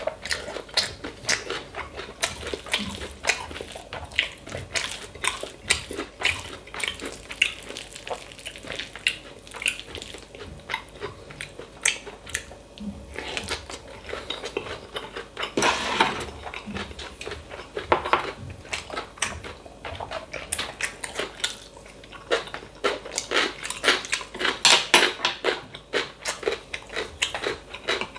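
Close-miked eating of bibimbap: a spoon clinking and scraping against the bowl again and again, with chewing in between.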